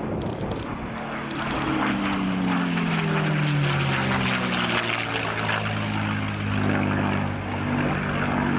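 Aircraft engine passing by, its engine tones falling in pitch as it goes past, then running on at a steady lower pitch.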